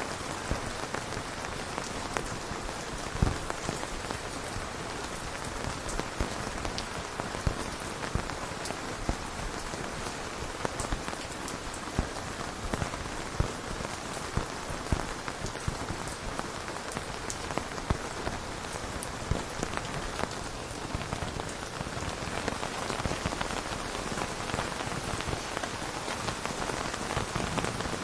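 Steady rain with many separate drops pattering on a surface.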